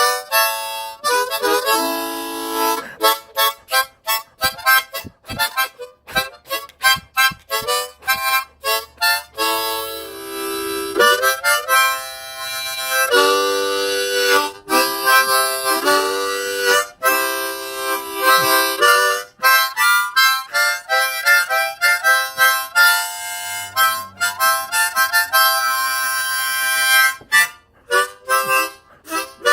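Harmonica music: a tune of many short, quickly changing notes and chords.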